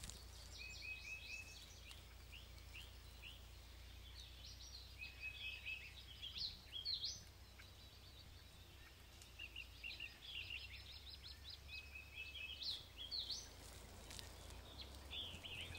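Faint birdsong: small birds chirping in short repeated phrases and quick trills, with a few rising calls, over a steady low hum.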